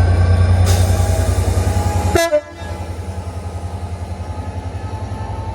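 Class 67 diesel locomotive's two-stroke EMD V12 engine working hard as it pulls away, a deep pulsing beat with a loud hiss over it. About two seconds in the sound drops suddenly, and the engine carries on more quietly with an even pulsing beat.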